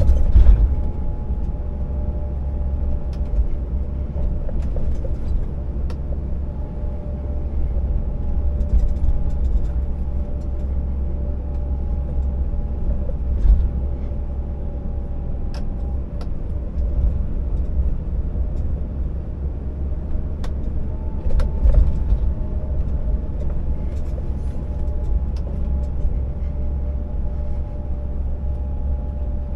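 Scania R650 timber truck's V8 diesel engine running steadily as the heavily loaded truck is driven, a deep continuous rumble with a steady whine above it. Scattered clicks and knocks come now and then, a few louder ones near the start and about two-thirds of the way through.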